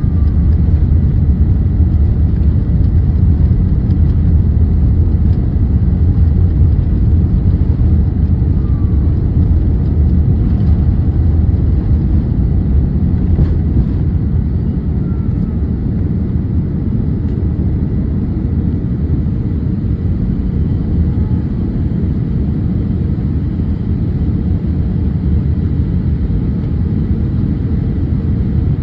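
Steady low rumble of a Boeing 787 airliner's engines and airflow, heard from inside the passenger cabin.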